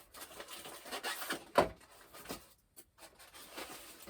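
Rubbing and scraping as foam plane parts and box packaging are handled, with a sharp knock about one and a half seconds in.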